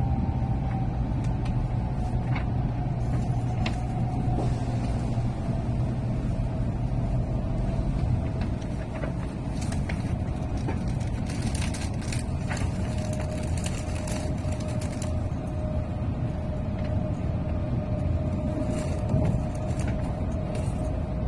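Shinkansen running noise inside the passenger car: a steady low rumble with a faint motor whine slowly falling in pitch as the train slows on its approach to the station. Scattered light clicks about halfway through.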